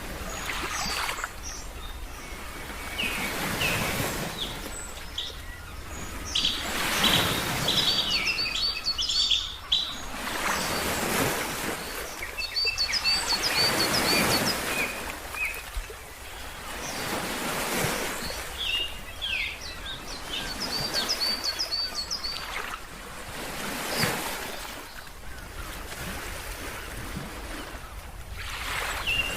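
Ocean surf washing in and out in swells every few seconds, with birds chirping in short, repeated bursts of high notes over it.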